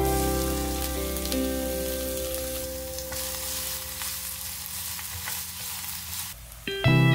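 Chopped onion sizzling in hot olive oil while it is stirred with a silicone spatula. The sizzle cuts off near the end and acoustic guitar music comes in.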